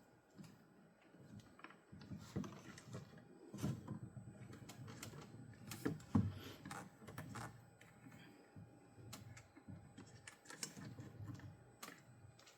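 Irregular light clicks and knocks of small wooden pieces and tools being handled at a workbench, with a few louder knocks; the lathe is not heard running.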